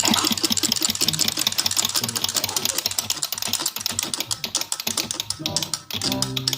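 Clockwork wind-up toy running on its wound spring: its gear mechanism gives a rapid, even clicking.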